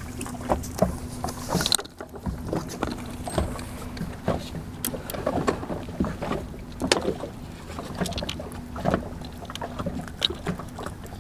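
Small fishing boat on the water: a steady low hum under scattered light knocks and clicks.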